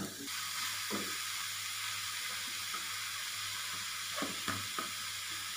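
Cabbage, onion and grated paneer momo filling sizzling in oil in a kadhai as it is sautéed, a steady hiss, with spatula strokes scraping the pan once about a second in and three times near the end.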